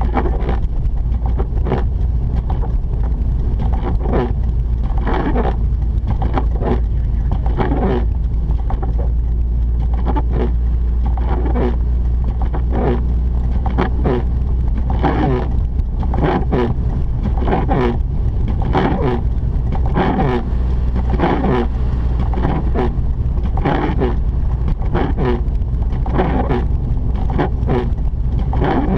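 Cabin noise of a Mazda RX-8 being driven on a snowy road: a steady low rumble of the twin-rotor rotary engine and tyres. Short swishing sounds recur roughly once a second on top of it.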